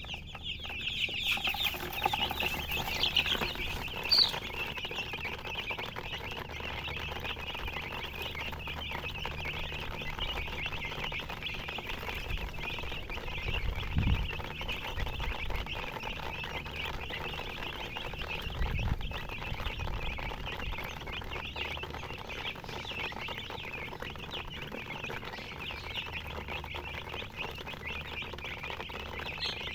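A flock of baby chicks peeping continuously, many high-pitched chirps overlapping. Two low thumps come about halfway through.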